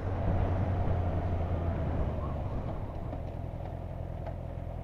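Motorcycle engine running at a steady road speed with wind and road noise, easing off slightly about two seconds in.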